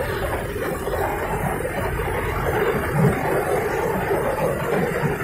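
Metre-gauge train climbing a hill line, heard from a coach: a steady rumble and rattle of the coaches and wheels on the rails, with the diesel locomotive's engine working under load.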